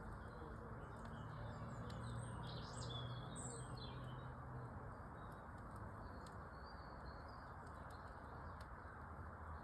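Small birds chirping and twittering in short high phrases, busiest in the first few seconds and sparser later, over a steady low hiss with a few faint sporadic clicks.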